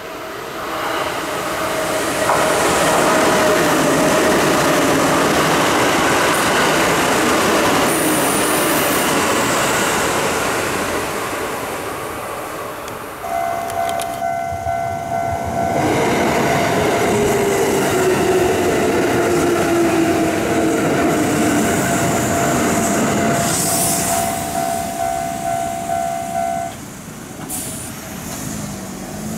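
Kintetsu electric train running into the station, wheels on the rails and a motor whine that falls slowly in pitch as it brakes. After a change about halfway through, a level-crossing alarm rings steadily for several seconds over the noise of another train slowing, its motor pitch falling. The alarm stops shortly before the end.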